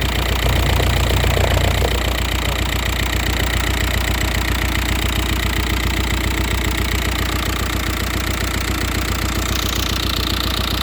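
Volkswagen Passat B5+ 1.9 TDI (AVF) four-cylinder turbodiesel engine idling steadily with its even diesel clatter.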